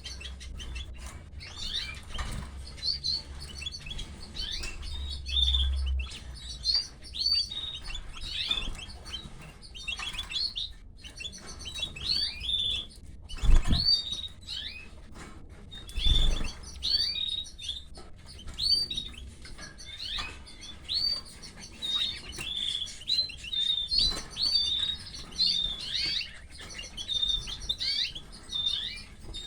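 Canaries chirping: short high cheeps repeated rapidly and continuously, with two louder thumps a few seconds apart near the middle.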